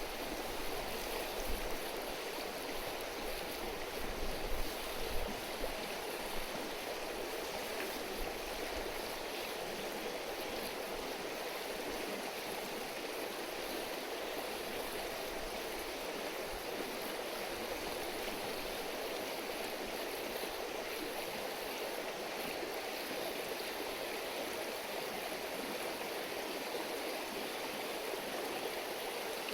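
Shallow river or stream babbling steadily, with a few low bumps in the first several seconds.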